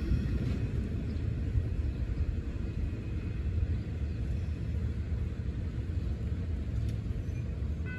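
Low, steady rumble of a double-stack intermodal freight train rolling away down the track.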